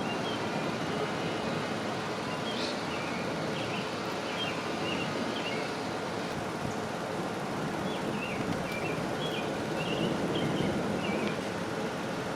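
Steady storm noise of heavy rain and wind, with short bird chirps repeating over it.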